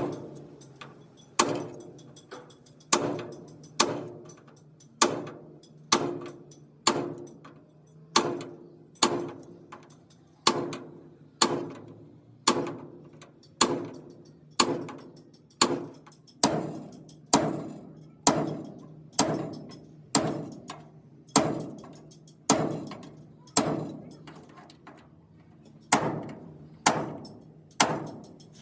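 Hand hammer striking metal in a slow, steady rhythm of about one blow a second, each blow ringing briefly before it fades.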